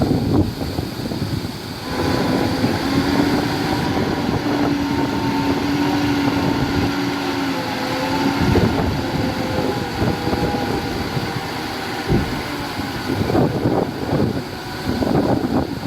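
Heavy diesel earthmoving machinery running under load, with a steady whine from about two seconds in until about twelve seconds, and bouts of clanking near the start and again near the end.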